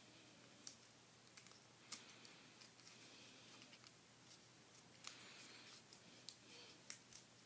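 Faint crinkling and light clicks of a sheet of origami paper being folded and creased by hand, several small sharp crackles spread through a near-silent room tone.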